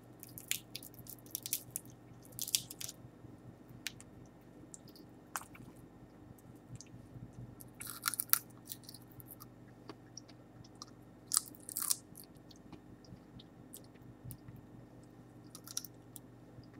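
Chewing on dehydrated giant water bug (Lethocerus indicus), with sharp, dry crackles and crunches of the stiff shell coming in a few separate clusters.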